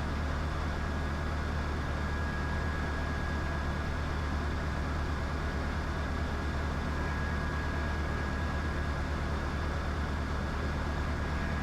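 Diamond DA20's propeller engine running steadily in flight, heard from inside the cockpit as an even low drone. A thin steady whine sits over it throughout.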